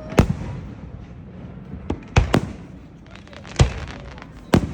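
Fireworks going off: about six sharp bangs at irregular intervals, with a short burst of crackling about three and a half seconds in.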